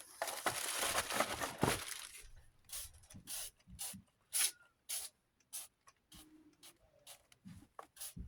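Trigger spray bottle spritzing cleaner onto a desk fan's base. A longer run of spraying hiss at the start is followed by a string of short spritzes about every half second.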